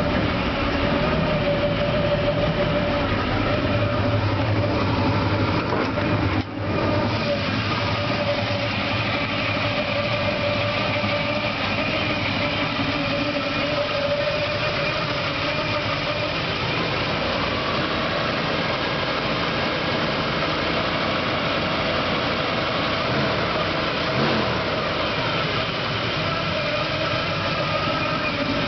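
1978 Chevy Big 10's 454 big-block V8, with Hooker headers and a thumper cam, running steadily. Its sound dips briefly about six and a half seconds in.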